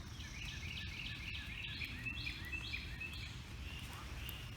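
A songbird singing a rapid series of repeated sliding notes, fading after about three seconds, over a low steady outdoor rumble.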